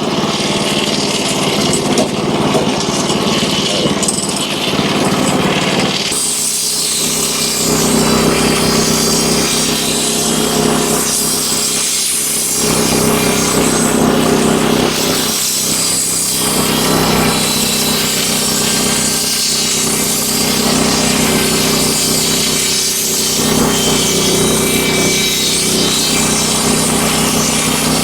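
Wood-Mizer LX25 band sawmill running. About six seconds in the blade starts its cut, and it saws steadily along a hemlock beam, with a steady engine hum under the hiss of the cut.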